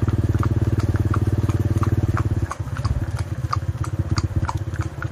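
Horse hooves clopping at a walk, about three knocks a second, over a loud, steady low buzzing drone that changes about halfway through.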